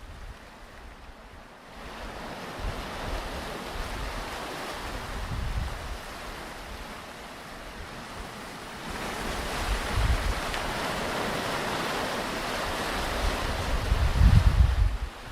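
Ocean surf on a beach: waves breaking and washing in, swelling about two seconds in and again around nine seconds. Wind buffets the microphone in low rumbles, strongest near the end.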